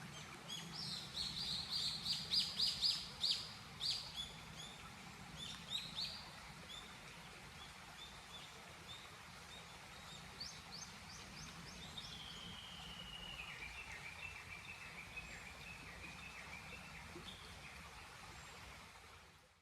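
Wild birds singing: a quick run of repeated high chirps in the first few seconds, then, about twelve seconds in, a long trill that slides gradually lower, over a steady low background rumble.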